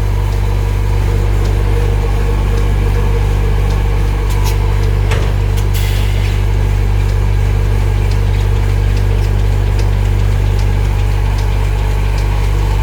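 Automatic pull-out tissue folding machine running, with its vacuum suction blower making a loud steady low hum and a few faint ticks over it.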